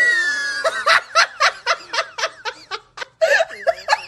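A person laughing: a high drawn-out squeal, then a quick string of short, high-pitched giggles that trail off.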